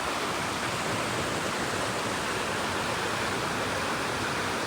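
Steady rush of Vickery Creek's flowing water, an even noise that holds without a break.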